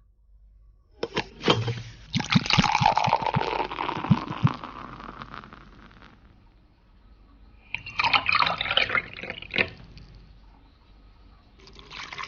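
Liquid being poured and splashing into a vessel in three bursts, with clicks mixed in; the longest pour is near the start, a shorter one comes about two-thirds of the way in, and another begins near the end.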